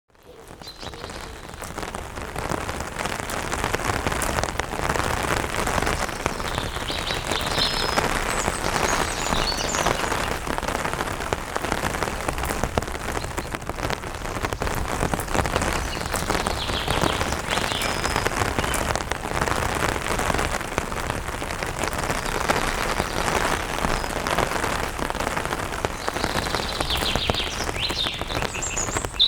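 Rain pattering on an umbrella, a dense steady spatter of drops that fades in over the first few seconds. Birds chirp in short high calls now and then, more of them near the end.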